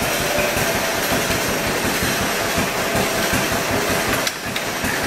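Tractor-mounted Ottawa log saw running off the PTO without its blade: a rapid, steady mechanical clatter over a running engine, dipping briefly about four seconds in.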